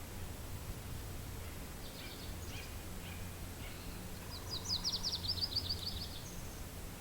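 Steady low wind rumble with a songbird chirping a few times. About four and a half seconds in, the bird sings a quick run of about a dozen high notes that step down in pitch.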